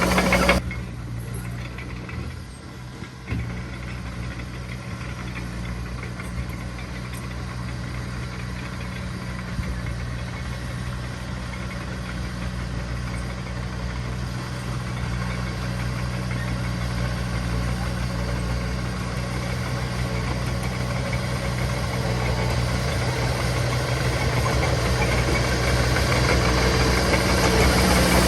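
Heavy diesel engine of earthmoving machinery running steadily. The level drops suddenly about half a second in, then grows gradually louder as the machine works closer.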